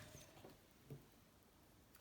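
Near silence with two faint soft knocks, one at the start and one about a second in, from small handling at the workbench.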